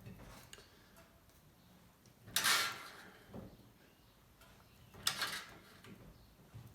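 Sheet-metal shrinker squeezing a steel patch panel to add shrinks and bow the panel. There are two loud crunching clunks, about two and a half seconds apart, with fainter clicks between them.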